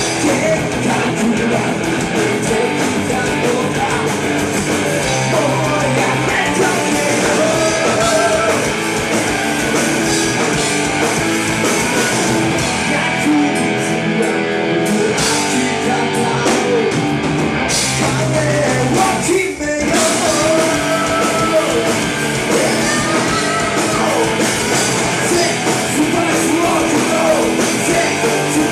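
Rock band playing live, with electric guitars, drums and a singing voice, and a brief break about two-thirds of the way through.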